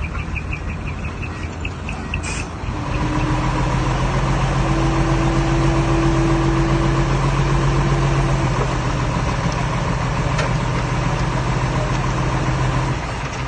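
Diesel engine of earthmoving machinery running steadily, with a rapid regular ticking for the first couple of seconds. About three seconds in the engine grows louder and holds a steady hum under load, then eases off near the end.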